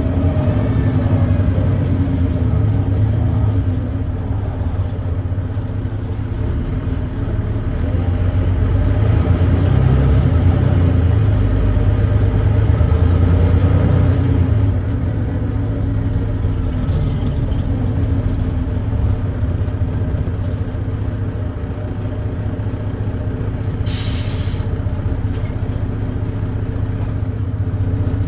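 Volvo D9B diesel engine of a Volvo B9TL double-decker bus heard on board, with an exhaust leak, running as a steady deep drone. It builds under power through the middle and eases off about halfway. A short hiss of compressed air comes near the end.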